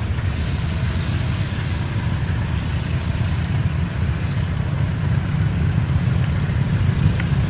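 Steady low rumble of a diesel-hauled train running, growing a little louder toward the end.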